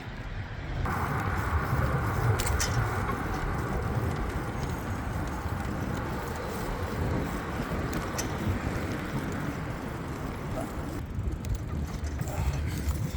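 Road and wind noise while cycling along a street: a low rumble under a steady rushing hiss that comes in about a second in and falls away near the end.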